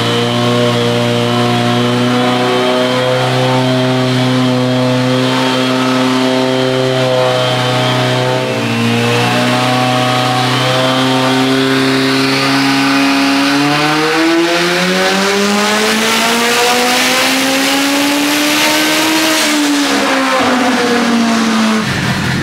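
Nissan GTi-R's turbocharged SR20VET four-cylinder engine running under load on a dyno. It holds a steady engine speed for about 13 seconds, then the revs climb smoothly for about five seconds in a pull, ease back down, and cut off sharply near the end.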